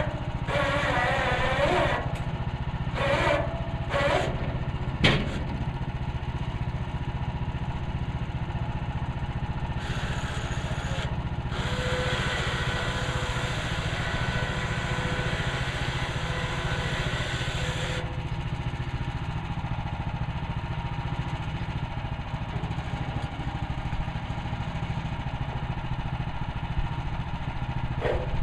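Woodland Mills HM130 Max portable bandsaw mill's gas engine running steadily. From about ten to eighteen seconds in, a brighter hiss rises over it as the band blade cuts through a red fir log, and there is a single sharp knock about five seconds in.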